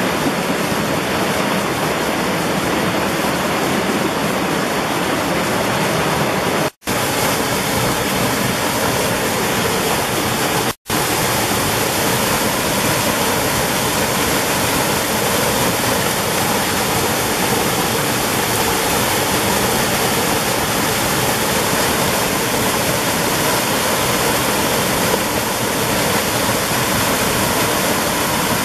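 Mountain valley stream flowing steadily over rocks, a loud, even water noise. The sound drops out completely for an instant twice, about 7 and 11 seconds in.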